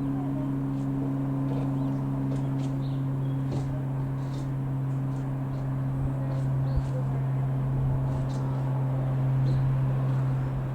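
Light aircraft's piston engine and propeller running at a steady speed: a constant low drone that holds one pitch.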